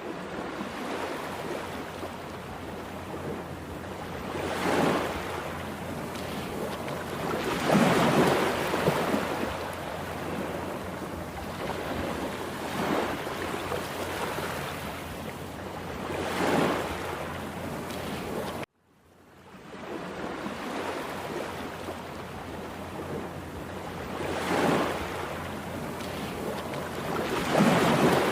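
Rough, stormy sea: heavy surf with waves breaking and surging every few seconds over a steady rush of water, with wind buffeting the microphone. The sound cuts out briefly about two-thirds of the way through and fades back in.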